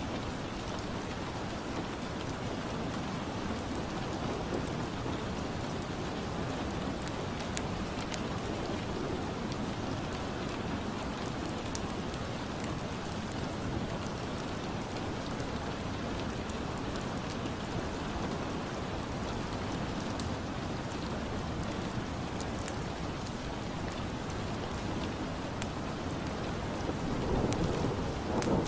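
Steady rain ambience with scattered sharp crackles, as of a fireplace, mixed in. Near the end a low rumble swells up briefly.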